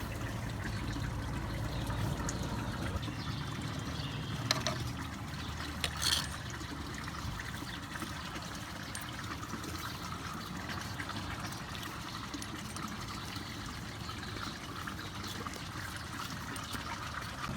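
Running water trickling steadily, with a couple of brief knocks about four and a half and six seconds in.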